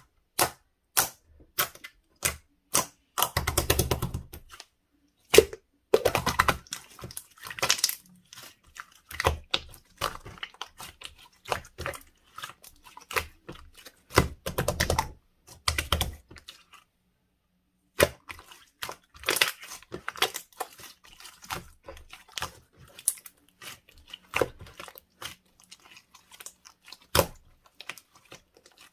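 Slime being pressed, poked and folded by hand: a string of sharp clicks and pops from trapped air, with denser crackling runs about three, six and fourteen seconds in.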